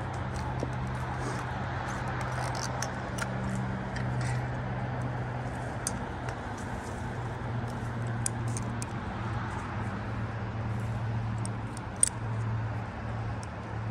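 A steady low engine hum with faint scattered clicks, and one sharper click near the end.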